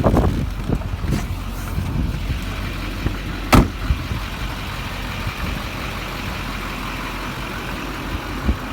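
LBZ Duramax 6.6-litre V8 turbo-diesel idling steadily, with one sharp knock about three and a half seconds in.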